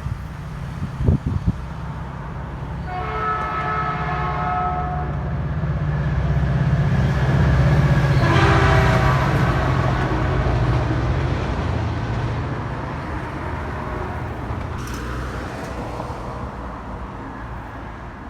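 A passing train: a low rumble that builds to its loudest about eight seconds in and then fades, with two long horn blasts, the second lower in pitch as the train goes by. A few sharp knocks come about a second in.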